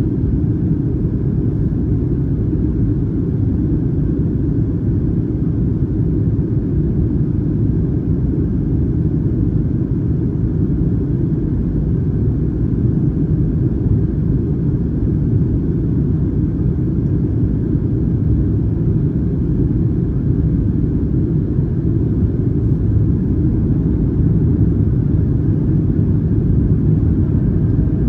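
Steady, low rumble of a Boeing 737-900ER's CFM56 engines and airflow, heard inside the economy cabin while airborne.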